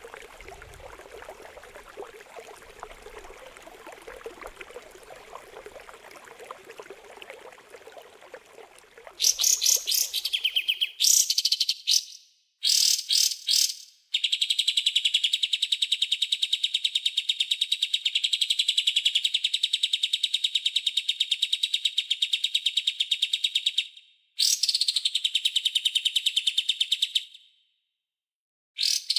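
Gently trickling water for about nine seconds. Then a songbird takes over with loud, rapid runs of harsh repeated high notes, the sharp 'tembakan' and rasping 'besetan' phrases used in bird-training recordings. A long run fills most of the rest, broken by a few short gaps.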